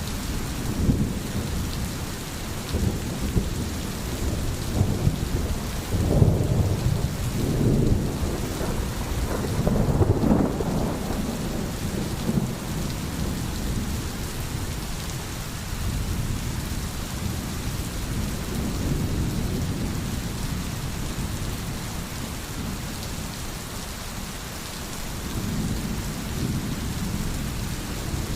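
Steady rain falling, with low rolling rumbles of thunder swelling and fading, the strongest about six and ten seconds in.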